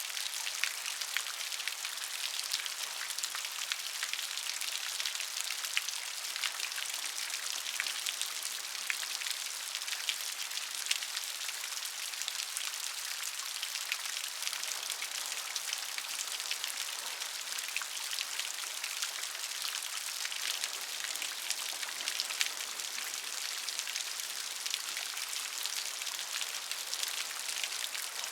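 Steady rain falling on a surface, a dense patter of many small drops with a few louder individual drops.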